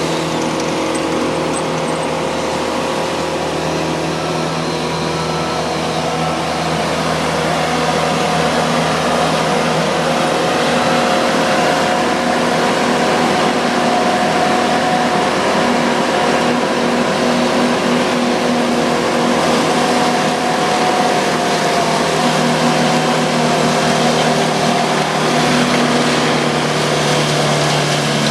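Skid steer and Morbark wood chipper engines running steadily at working speed: a constant hum with a dense noise over it.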